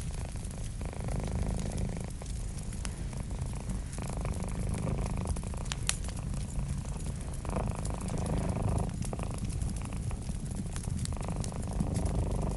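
Cat purring steadily, its purr swelling and fading every few seconds with its breathing, over the light crackle and pops of a fireplace fire.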